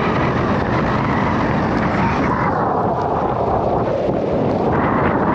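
Gale-force wind buffeting the microphone: a loud, steady rumbling rush that swells and eases every second or two.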